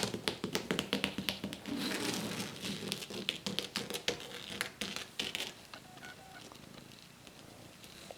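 Kitten purring close by, mixed with many light taps and clicks; it eases off to a quieter stretch about two-thirds of the way through.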